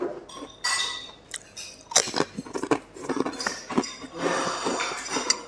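Chewing and mouth noises close to the microphone, with irregular clicks and smacks and an occasional clink of cutlery on a plate.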